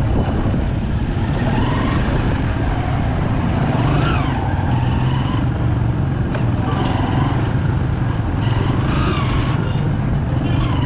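Bajaj Pulsar 200 motorcycle's single-cylinder engine running steadily while riding in traffic, with faint passing tones over the engine.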